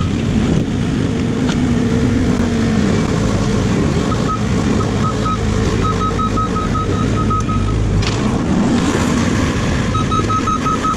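Excavator's diesel engine and hydraulics working under load, the engine note rising and falling, with a reversing alarm beeping in short runs of rapid beeps.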